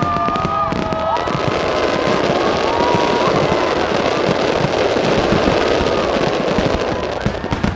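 Fireworks display: a dense, continuous crackling and popping of many small bursts, with a few whistling tones in the first three seconds.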